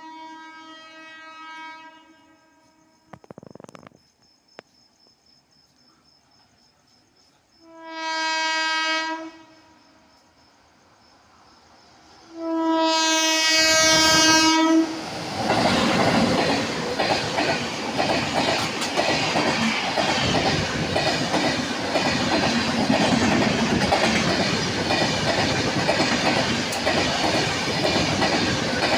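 A superfast express train's locomotive horn sounds three times, each blast louder than the last as it approaches. The train then rushes past at speed, with steady loud wheel and carriage noise and rapid clattering over the rail joints.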